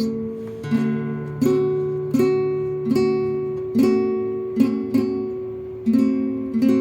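Acoustic guitar strummed in slow chords, about one strum every three-quarters of a second, each chord ringing and fading before the next.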